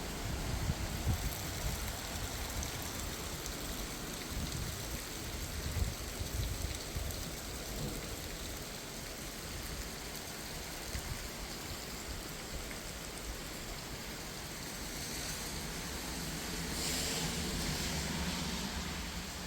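Steady rain falling, an even hiss of drops. Low rumbling in the first several seconds, and the hiss swells briefly near the end.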